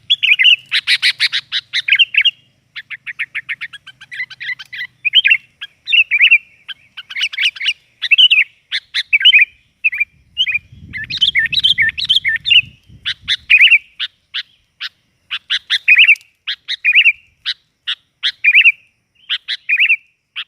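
Sooty-headed bulbuls (kutilang) calling busily: a steady run of short, bright chirps and whistled phrases, with a fast chattering series of notes a few seconds in.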